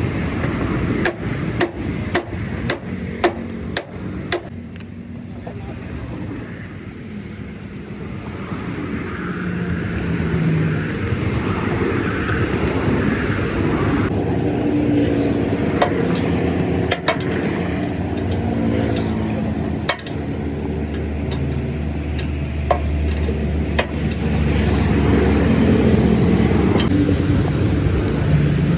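Sharp hammer blows on metal in irregular spells over the steady low rumble of a running vehicle, which grows louder in the second half.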